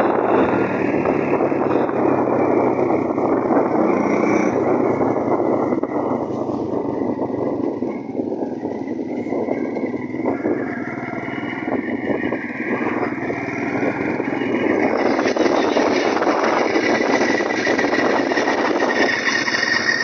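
Small engine of an engine-fitted bicycle running steadily.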